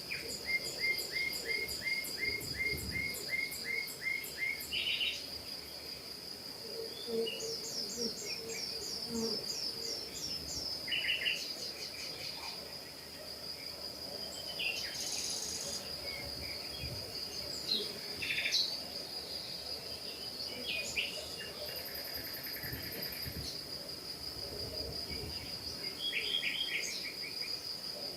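Birds singing: several different songs made of quick series of repeated chirps, some high and some lower, over a steady high-pitched trill like an insect's.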